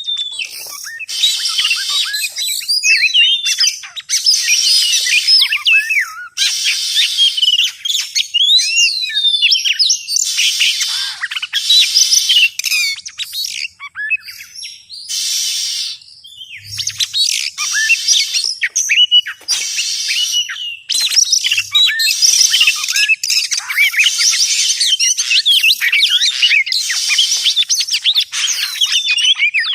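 Oriental magpie-robin (kacer) singing a long, varied song of clear whistles and quick rising and falling glides, broken by a few short pauses, as played on a bird-lure recording.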